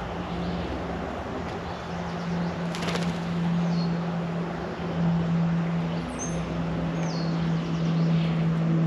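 A few short, high, downward-sliding songbird chirps over a steady low hum and background noise, with a brief rattle of clicks about three seconds in.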